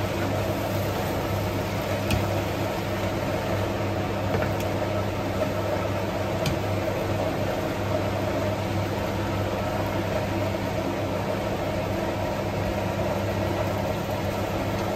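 Greens and shrimp sizzling as they are stir-fried in a non-stick pan, a steady hiss over a constant low hum, with a few light ticks of the wooden spatula against the pan.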